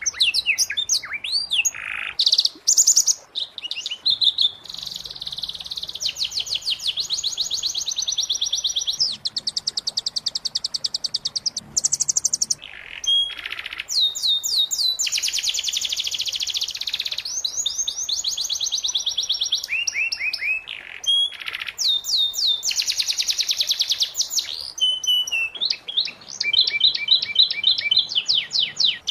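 Domestic canary singing a long, varied, high-pitched song of fast rolling trills and rapidly repeated notes, switching phrases every second or two with only brief gaps.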